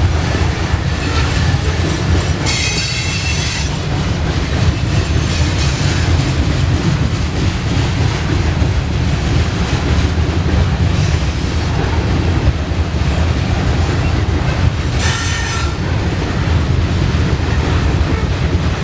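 Norfolk Southern grain train's freight cars rolling past close by in a loud, steady rumble and clatter of wheels on rail. Wheels squeal shrilly twice: for about a second a couple of seconds in, and briefly about three-quarters of the way through.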